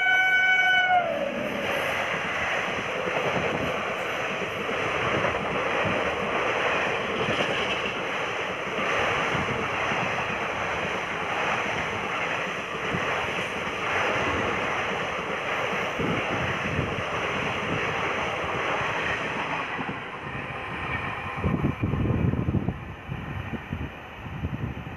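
Express train passing at speed on the adjacent track: its horn ends about a second in, dropping in pitch, then the coaches rush past with steady rumbling and wheel clatter for about twenty seconds before it fades.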